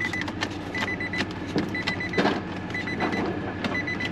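A car's dashboard warning chime beeping in a repeating pattern: a quick cluster of short high beeps about once a second. Scattered clicks and a steady low hum run under it.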